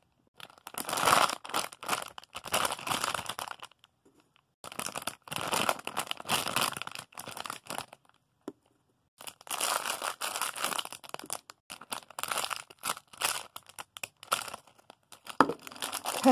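Plastic wrapping crinkling in bursts as soft squishy toys are handled, with two short pauses, about four and eight seconds in.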